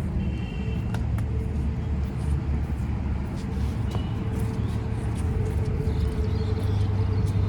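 Ferry boat's engine running steadily, a low drone with a steady hum over it, as the boat gets under way.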